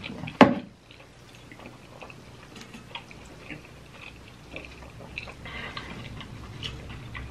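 Close-up chewing of fried mozzarella sticks: faint, irregular wet mouth clicks and smacks, with one sharp, louder smack or bite just under half a second in.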